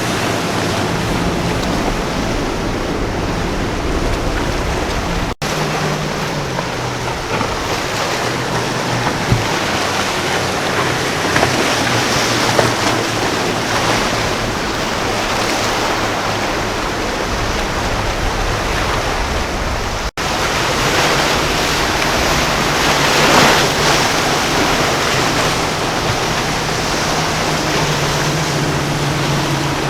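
Waves and surf at an inlet with wind on the microphone, under the low steady drone of boat engines. The sound drops out for an instant twice, about five seconds in and about twenty seconds in.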